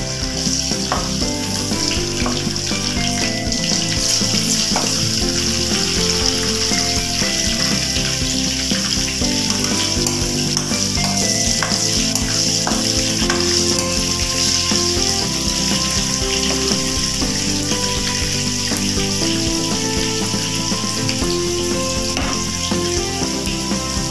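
Ginger strips frying in hot oil in a wok, a steady sizzle, stirred now and then with a metal ladle.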